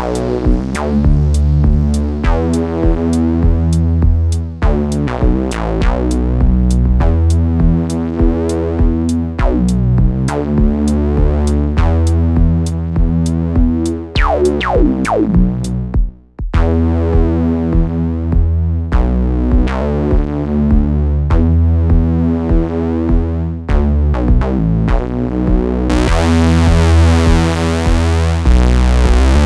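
Eurorack synth sequence with drum-machine ticks, run through a Swenigiser Proto VCF/A filter with its input driven hot for a gritty tone. The filter is swept as it plays: a curving sweep around the middle, a brief dropout just after, the top end muffled for several seconds, then opening bright again near the end.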